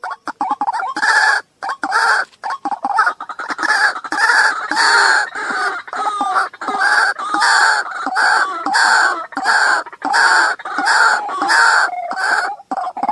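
Waterhen calling: a long run of loud, harsh call notes repeated about twice a second, with a brief pause a second or so in.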